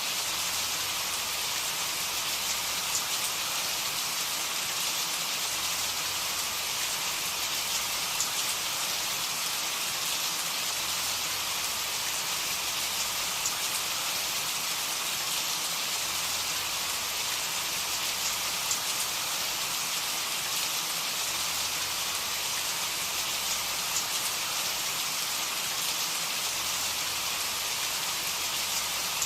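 Steady rain falling, an even hiss with faint individual drops pattering on a surface.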